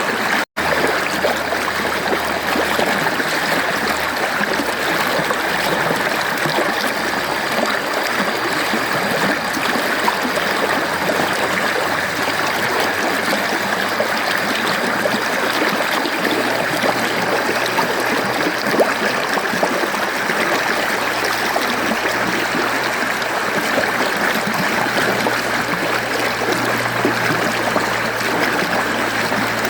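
Mountain stream flowing steadily, an even rushing of water. About half a second in, the sound cuts out for a split second.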